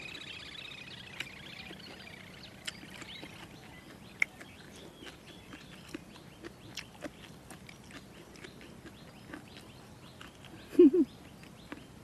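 Close-up chewing of crunchy jellyfish salad, with many small wet mouth clicks, while birds call in the background during the first few seconds. A brief, much louder low sound comes near the end.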